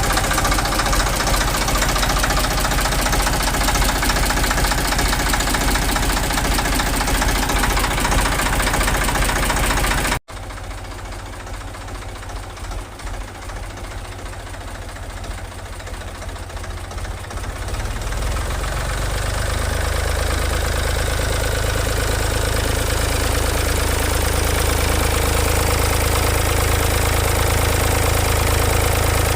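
Ford 3000 three-cylinder diesel tractor engine running right after a cylinder head replacement and injector bleeding, loud and knocking, not yet running smoothly. About ten seconds in, a cut leads to a quieter, steadier idle that slowly builds.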